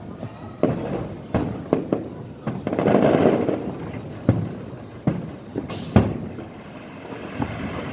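Aerial fireworks bursting in a string of sharp bangs, with a denser stretch of overlapping bursts about three seconds in and the loudest bang near six seconds.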